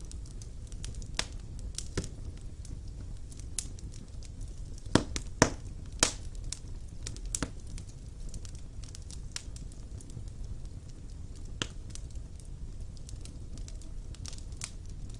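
Fire burning in a fireplace: a steady low rumble of flame with irregular sharp crackles and pops, the loudest a quick run of three pops about five seconds in.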